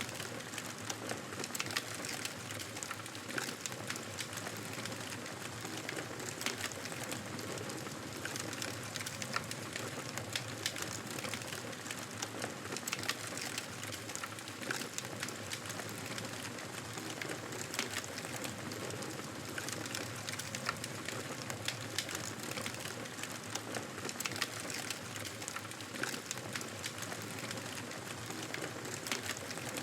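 Fire burning in a fireplace: an even hiss dotted with many small crackles and pops.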